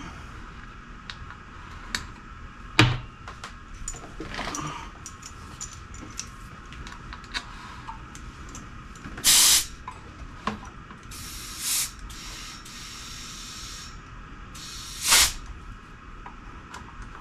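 Air hissing in three short bursts through a motorcycle inner tube's valve stem, with scattered clicks and knocks of handling between them. The loudest knock comes about three seconds in.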